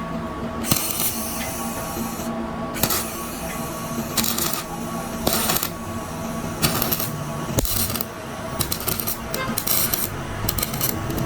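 Metal parts clinking and scraping, with repeated short hissing bursts of a second or less and a few sharp clicks, over a faint steady hum.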